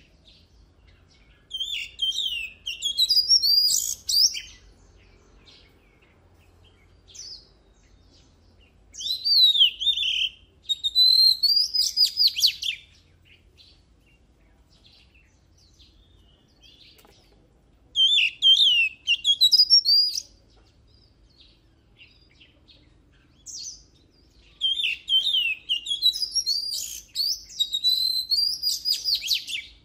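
Oriental magpie-robin singing in four loud bouts of rapid, varied whistles and trills, with pauses of several seconds between them.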